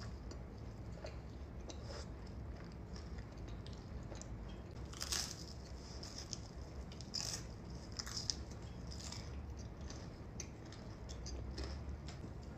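Close-miked mukbang eating: steady chewing with wet mouth sounds, and a few louder crunchy bites about five, seven, eight and nine seconds in.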